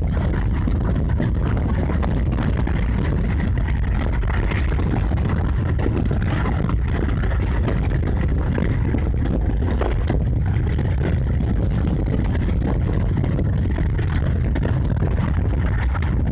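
Steady low rumble of a vehicle travelling along a road, unbroken throughout.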